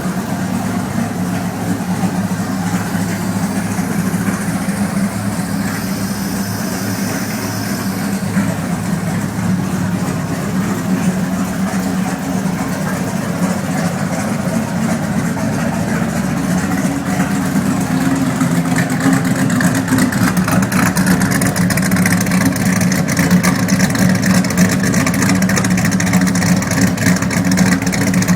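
1997 Dodge Viper GTS's 8.0-litre V10 running steadily at idle through a Borla aftermarket exhaust, a deep, even burble that grows somewhat louder over the second half.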